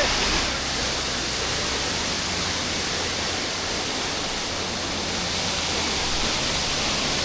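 Waterfall rushing steadily, with strong wind buffeting the microphone.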